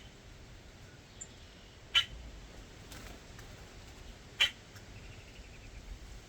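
Short, sharp chip calls from a bird at the feeder, twice, about two and a half seconds apart, with a faint soft trill between them.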